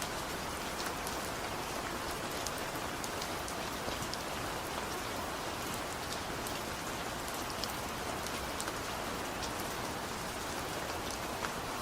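Steady, gentle rain falling on surfaces, an even hiss with scattered individual drop ticks and no thunder.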